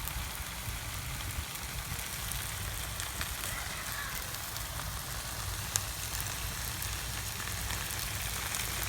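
Chicken and baby back ribs sizzling on a grill: a steady hiss with scattered sharp pops of fat.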